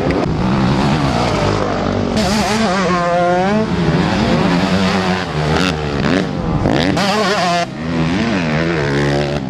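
MX2 motocross motorcycles racing, several engines overlapping and revving up and down as the riders accelerate and back off around the track.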